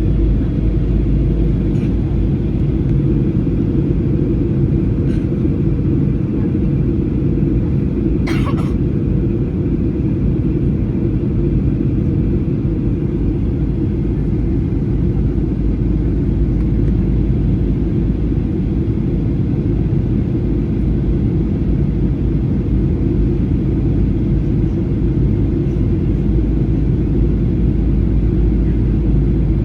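Steady low rumble of a jet airliner's engines and airflow, heard inside the passenger cabin in flight. A brief sharp clink sounds about eight seconds in.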